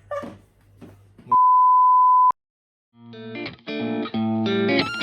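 A single steady 1 kHz bleep about a second long, switched on and off abruptly like a censor-bleep sound effect. After a short silence, plucked electric-guitar background music starts about three seconds in.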